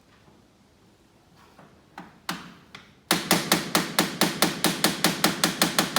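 Hammer tapping to free a stubborn screw: three separate taps, then a fast, even run of about seven taps a second.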